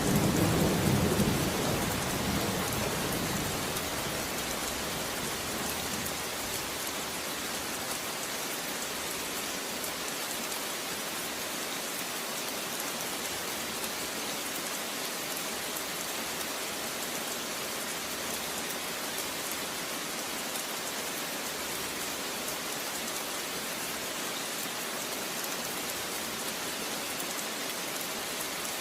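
Steady rain falling heavily and evenly during a thunderstorm. The deep rumble of a thunderclap dies away over the first few seconds.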